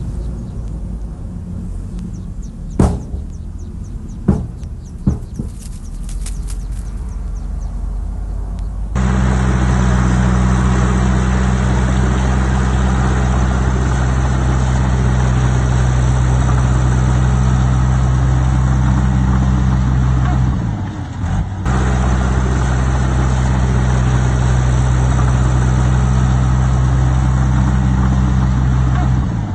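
Heavy earthmoving machine's diesel engine running. At first it is quieter, with three sharp knocks; about nine seconds in the sound switches abruptly to a loud, steady, low engine drone that dips briefly about two-thirds of the way through.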